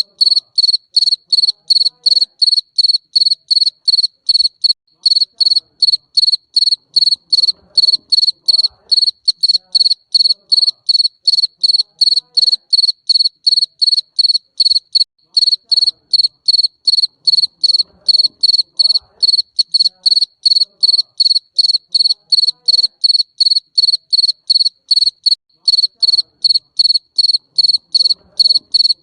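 Garden cricket chirping: a steady, even run of short high-pitched chirps, about three a second, on one unchanging pitch.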